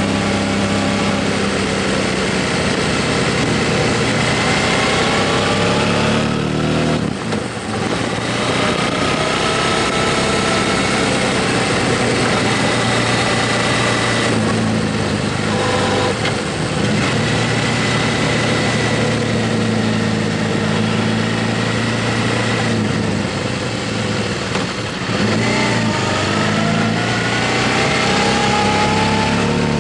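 Motorcycle engine under way, its pitch rising as it pulls and dropping back at each gear change, several times, over a steady rush of noise.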